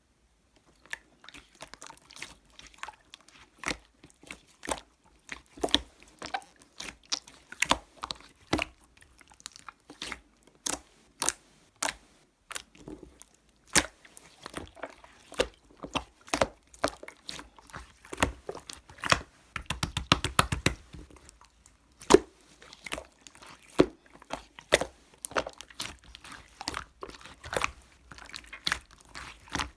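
Clear jelly-like slime being squeezed and stretched by hand, making irregular wet clicks and pops, with a quick run of rapid pops about twenty seconds in.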